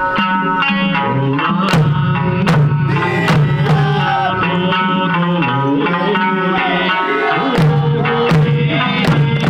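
Okinawan eisa folk music: a singer's voice over sanshin-style plucked string accompaniment, with drum strikes about every 0.8 s.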